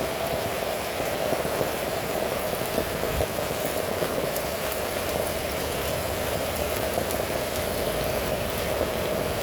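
Heavy rain falling steadily: a dense, even hiss of drops that holds at the same level throughout.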